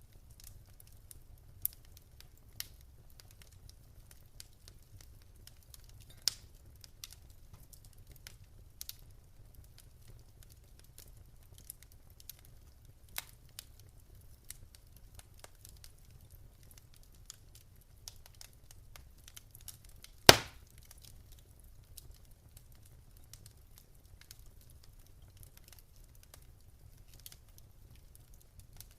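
Wood fire in a fireplace crackling: scattered sharp pops and snaps over a faint low rumble of the flames, with one much louder pop about twenty seconds in.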